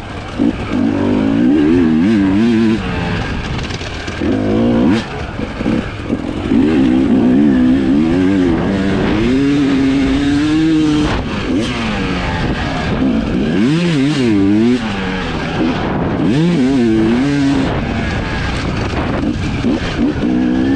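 Husqvarna TE 300i single-cylinder two-stroke enduro engine, revved up and down over and over as the throttle is opened and closed in quick bursts, its pitch rising and falling many times.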